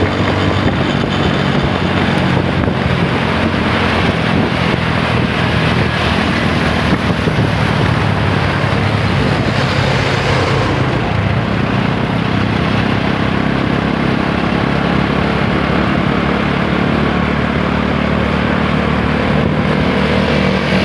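TVS Apache 160 4V's single-cylinder four-valve engine running under way, a steady engine note with wind rushing over the microphone; the wind eases about halfway through.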